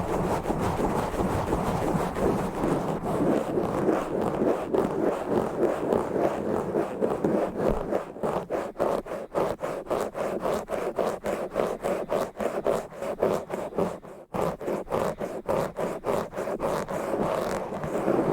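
Rough, fast scratching and rubbing directly on a bare microphone. For the first half it is a continuous dull scratching, then it becomes quick rhythmic strokes at about three to four a second, with a brief break partway through.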